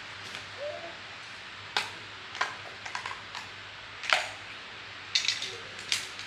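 A series of sharp clicks and knocks, irregularly spaced and about eight in all, over a steady hiss; the loudest comes about four seconds in.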